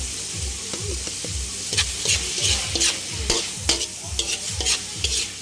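Chicken and sliced sausage sizzling in a hot aluminium wok while a metal ladle stirs them, scraping and clinking against the wok. The scrapes come in quick strokes from about two seconds in, over a steady sizzle.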